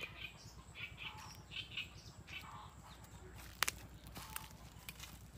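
Birds calling in short, repeated chirps, mostly in the first half, over a steady low hum. A sharp click about three and a half seconds in is the loudest sound, with a fainter click soon after.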